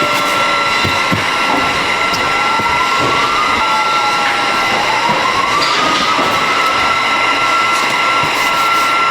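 Production-line machinery running steadily, with a constant high whine over dense mechanical noise and motor whines that rise and fall in pitch a few times.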